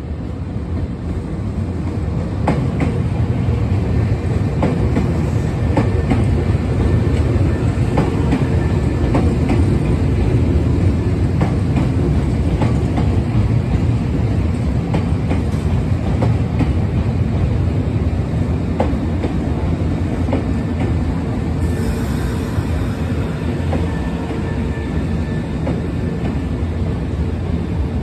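Semboku Rapid Railway 3000 series electric train running into a station: a steady rumble of wheels and running gear, with wheels clacking over rail joints again and again. The rumble builds over the first couple of seconds as the train draws alongside, then holds steady.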